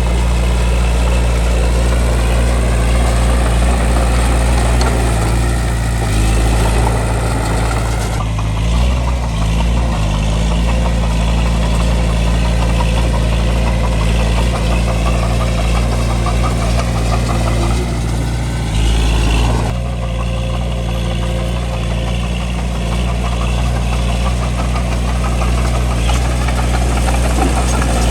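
Bulldozer's diesel engine running steadily at working speed, its note shifting a few times and changing abruptly about a third of the way in and again past two thirds.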